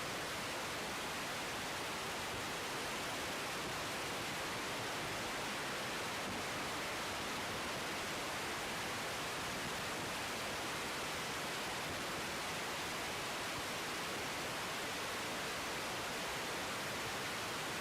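A steady, even hiss with no engine or other distinct sound in it.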